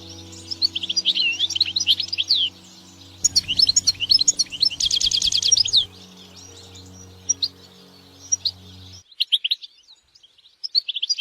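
European goldfinch singing in twittering phrases of quick, sliding notes, with a fast run of repeated notes about five seconds in, over background music that cuts off about nine seconds in.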